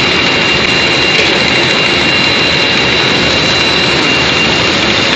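Snack-food production line machinery, a twin-screw core-filling extruder line, running steadily: a loud, even mechanical noise with two constant high-pitched whines.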